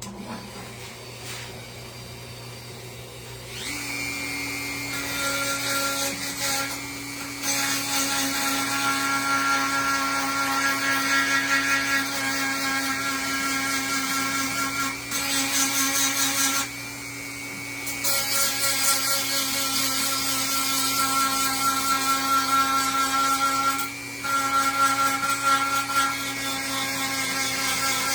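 Handheld rotary tool fitted with a sandpaper bit, sanding wood down: it starts up a few seconds in and runs at a steady high whine. Its loudness rises and falls as it bears on the wood, dipping briefly a few times when it eases off.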